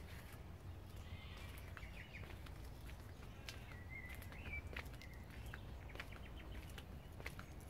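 Faint outdoor garden ambience: a bird gives a few short chirping calls, the clearest about four seconds in, over a low steady rumble and scattered light clicks.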